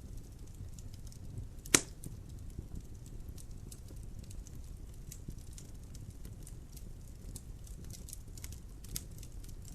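Logs burning in a fireplace, crackling with many small irregular snaps over a low steady rumble of the flames. A single loud pop about two seconds in, and a smaller one near the end.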